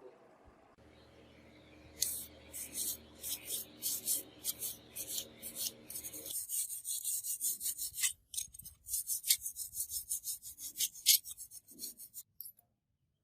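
Hand abrasive work on a model car part, filing or sanding in quick back-and-forth scraping strokes. The strokes come about three a second, then speed up, pause briefly and stop near the end.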